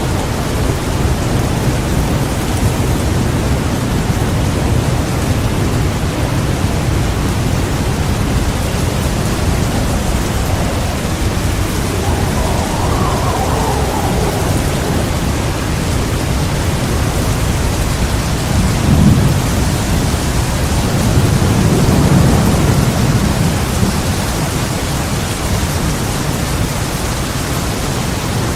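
Heavy rain falling steadily, with thunder rumbling low beneath it. Deeper, louder rolls of thunder come about two-thirds of the way through.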